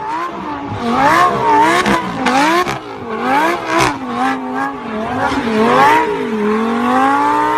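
Car engine revving up and down in quick repeated swings, with sharp cracks between the revs; near the end it revs up in one longer rise and holds.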